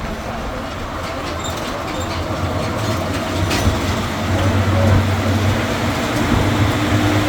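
Tourist road train riding along: a steady low engine drone with road noise and a few light clicks and rattles, growing a little louder past the middle.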